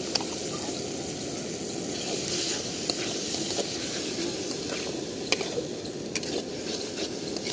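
Egg and tomato mixture sizzling and bubbling in a metal karahi as it is stirred with a metal spatula, the spatula clinking sharply against the pan a few times.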